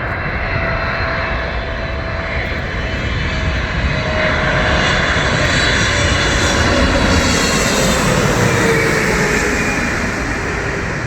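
A Boeing 777 twin-engine jet airliner passing close by, its engine noise swelling to a peak and then easing off, with a whine that slowly falls in pitch as it goes past.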